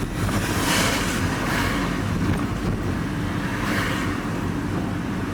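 Steady engine and road noise heard from inside a moving vehicle, with swells of tyre hiss from a wet road.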